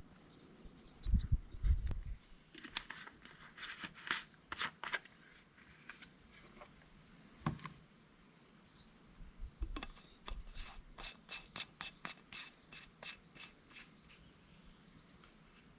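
Scattered clicks, taps and scrapes of hands handling tools or parts, with a few low thumps about a second in and a run of quick sharp ticks in the second half.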